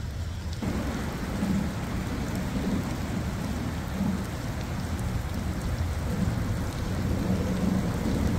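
Steady rain falling on the river, with a deep low rumble under it. The rain noise fills out about half a second in.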